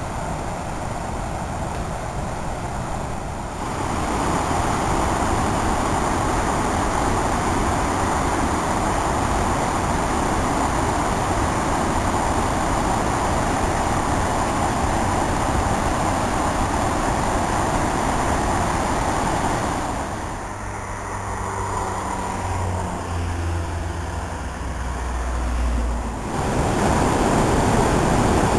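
Waterfall on a river: the steady rushing roar of falling water. It changes abruptly a few seconds in and again for several seconds near the end, where a low steady hum comes through.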